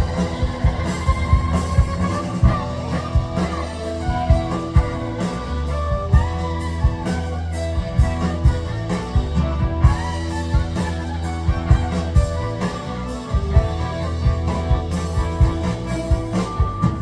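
A live band playing an instrumental passage of a rock song: drum kit hits over a steady bass line, with guitar and other sustained instrument lines on top.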